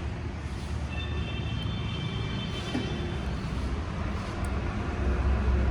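A steady low engine rumble, like a vehicle running nearby, with a faint high whine from about one to three seconds in; the rumble grows louder near the end.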